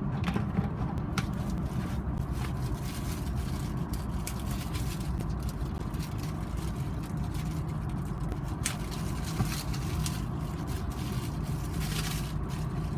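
A moving vehicle's steady low rumble of engine and road noise, with a few light clicks or rattles scattered through it.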